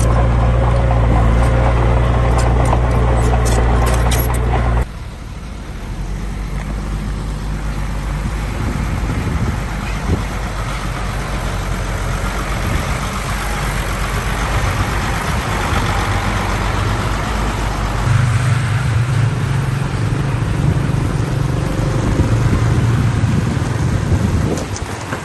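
Heavy diesel engines of working trucks and machinery running. A steady engine hum breaks off abruptly about five seconds in and gives way to a rougher, quieter engine sound, and a deeper, louder engine note comes in from about eighteen seconds.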